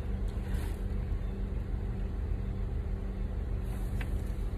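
A car engine idling: a steady low hum that holds level throughout.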